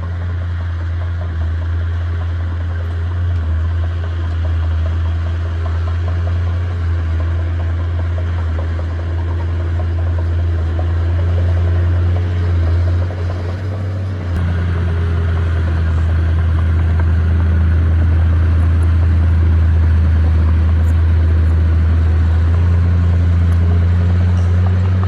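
Heavy earthmoving machine's diesel engine running steadily, with a deep hum. About halfway through it briefly drops, then runs a little louder.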